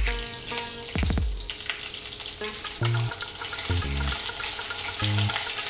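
Ginger-garlic paste sizzling in hot oil in a kadai with whole spices, stirred with a steel ladle, over soft background music.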